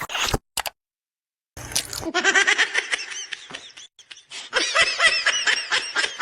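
A person laughing in quick, high-pitched repeated bursts, in two long runs with a short break between them.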